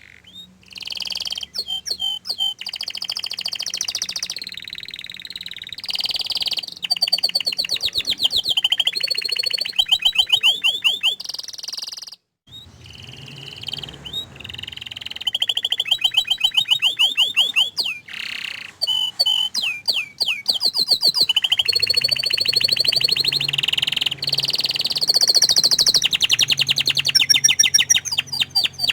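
Domestic canary singing a long song of fast rolling trills and chirps, broken by a brief pause about twelve seconds in.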